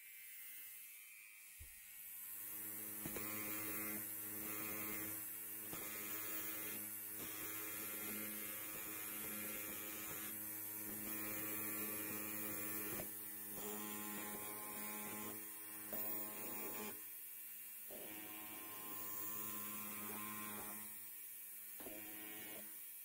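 Electric hair clipper buzzing steadily, a low even hum that swells up over the first two seconds, with a small click near the start and a few brief dips in the buzz later on.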